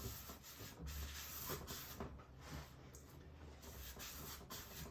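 Paintbrush bristles scrubbing acrylic paint onto a canvas, faint repeated strokes back and forth.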